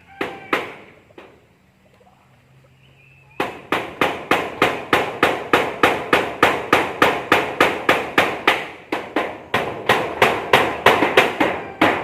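Rapid, steady hammering, about three to four blows a second. It starts a few seconds in, after two single knocks.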